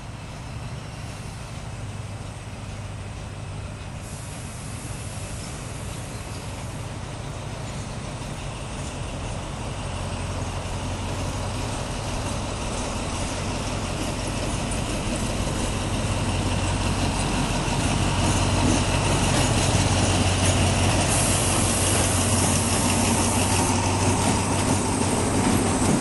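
Diesel locomotive hauling a passenger train on its slow approach into the station, its engine drone and the rolling of the train growing steadily louder as it nears and draws past. A brief high hiss comes about twenty seconds in.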